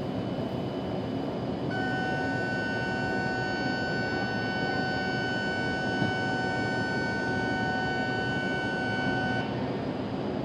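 Steady rumble of a Shinkansen station with a train present. About two seconds in, a steady electronic signal tone starts on one unchanging pitch. It holds for about eight seconds, then cuts off.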